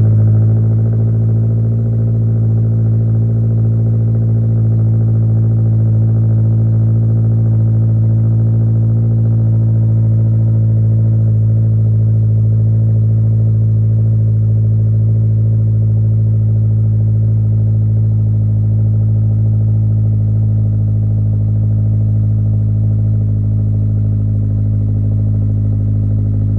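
Toyota GR86's 2.4-litre flat-four engine idling through a Remark axle-back muffler-delete exhaust, a steady deep drone. It is a little louder in the first couple of seconds after starting, then settles to an even idle.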